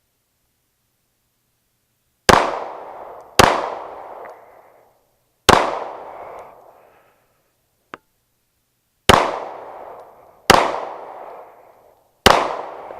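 Six shots from a 9mm Glock 17 pistol, three at each of two targets, each shot followed by a short echo. They come in two groups of three, with a longer pause between them.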